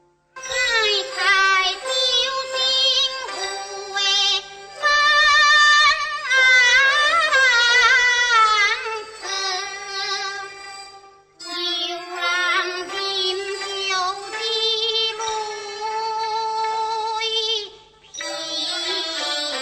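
Teochew opera singing: a high voice sings a drawn-out, ornamented melodic line with wide vibrato and sliding pitch over instrumental accompaniment. The phrases break off briefly about eleven seconds in and again near the end.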